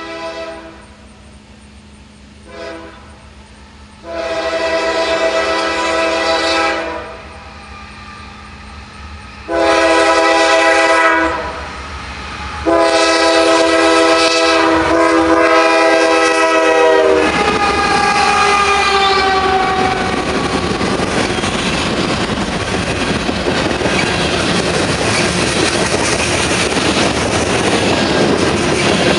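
Air horn of Norfolk Southern diesel freight locomotives, including a GE C40-9W, sounding a series of long and short blasts as the train approaches. The last long blast cuts off about seventeen seconds in as the locomotives pass. After that comes the steady, loud run of the diesels pulling hard and a long train of tank cars rolling slowly past, wheels clattering on the rails.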